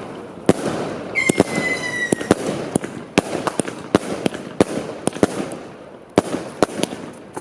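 Fireworks going off: a steady run of sharp bangs over a crackling haze, with a whistling firework shrieking for about a second, starting about a second in and dipping slightly in pitch.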